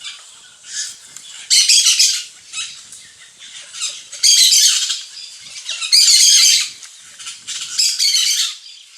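Small birds chattering and squawking in harsh, high-pitched calls, rising to four loud bursts of about a second each with quieter chatter between.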